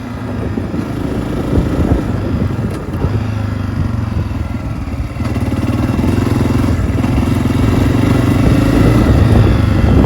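Honda CRF250F dirt bike's single-cylinder four-stroke engine running under way on a trail. The engine note grows louder toward the end, with a brief easing of the throttle about five seconds in.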